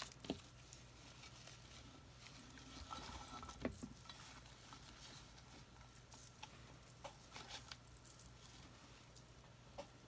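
Faint rustling and scattered light clicks of craft materials being handled, over a low steady hum.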